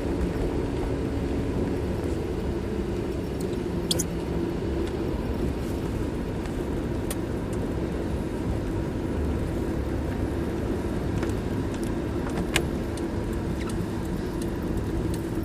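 Steady running noise of a car heard from inside the cabin: a low rumble with a faint hum, and a couple of light clicks.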